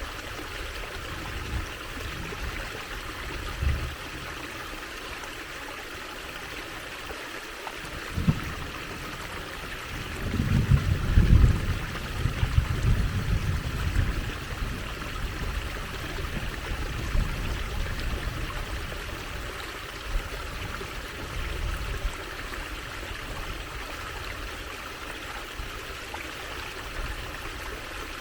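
Water trickling and running steadily over stones in a small stream, with a low rumble and a few low knocks that are loudest between about ten and fourteen seconds in.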